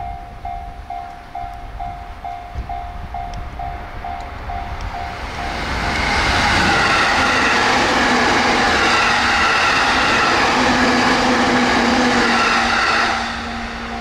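An E257 series electric limited express train passes at speed. Its wheel and rail noise, with several steady tones in it, swells about five seconds in, holds loud, and drops off sharply near the end. Before and after the pass, a short electronic tone repeats about two and a half times a second.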